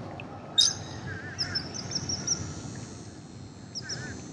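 Birds chirping: a quick run of short high chirps about a second and a half in and a couple more near the end, over a low steady wash of water and wind noise. One short sharp sound about half a second in stands out as the loudest moment.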